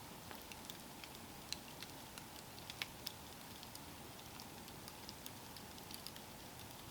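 Campfire crackling softly over a faint steady hiss, with scattered sharp pops and snaps, a few louder ones about a second and a half and three seconds in.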